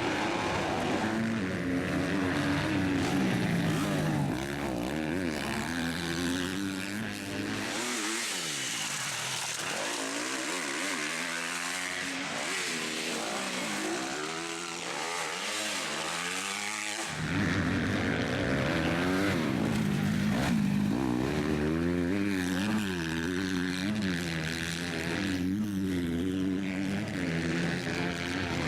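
Motocross motorcycle engines revving up and down as the bikes race around the track, the pitch rising and falling again and again. About eight seconds in, the deep part of the sound drops away and a hiss comes up for about nine seconds, then the full engine sound returns.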